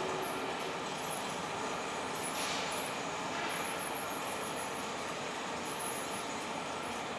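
Passenger train passing at speed: a steady rolling noise of wheels on rail, with a short hiss about two and a half seconds in.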